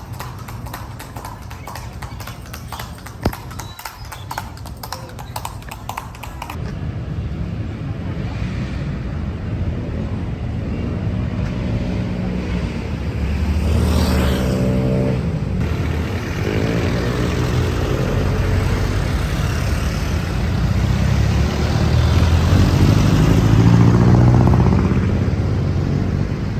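Street traffic: rapid clip-clop of a horse's hooves on pavement for the first few seconds, then motor vehicle engines passing, their pitch rising and falling.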